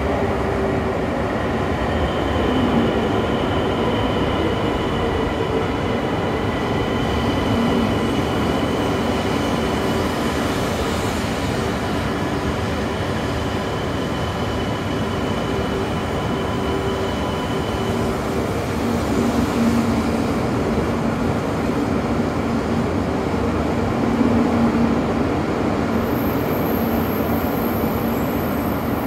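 E2 series Shinkansen train at the station: a steady hum and rush with several steady whining tones of unchanging pitch. A high whine stops about 18 seconds in.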